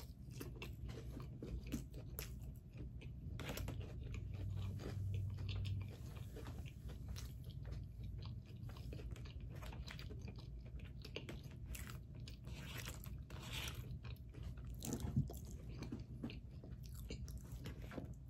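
Close-up, faint chewing and small wet mouth clicks of someone eating a mouthful of pancake, over a low, steady room hum.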